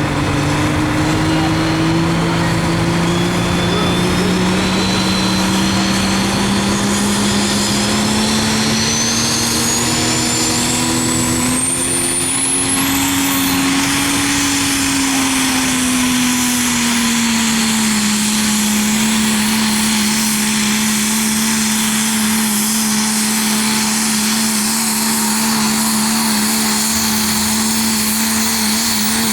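Pulling truck's engine running hard under load, its pitch climbing slowly for about thirteen seconds, easing back a little, then holding steady. A thin high whine rises steadily in pitch over the first dozen seconds.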